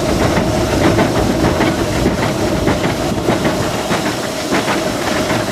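Cab of a 1925 Baldwin steam locomotive under way: a steady hiss of steam over a continuous rattle of small clicks and knocks from the running engine and track.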